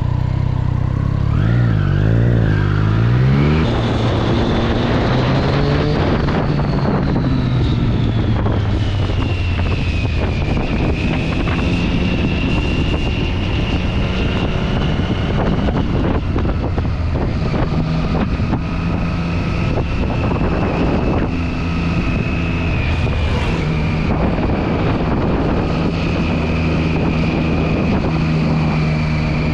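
Triumph Street Triple 675's inline three-cylinder engine through its stock exhaust, revved up and down a few times in the first four seconds, then running on with steadier, slowly changing engine speed.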